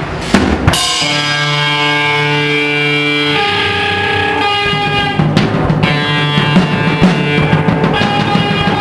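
Small rock band playing live: a few drum hits, then a chord held and left ringing, which shifts to another chord partway through before the drums come back in.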